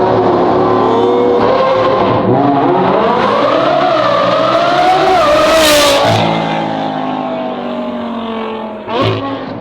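Sports car engine revving hard under full acceleration, its note climbing in pitch for several seconds, with a loud noisy burst about two-thirds of the way up. The pitch then drops and the engine settles to a lower, steadier note, with a sharp knock near the end.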